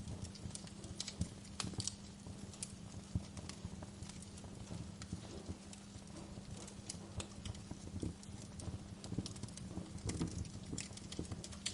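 Wood fire burning in a fireplace, crackling with frequent irregular sharp pops and snaps over a low rumble and a faint steady hum.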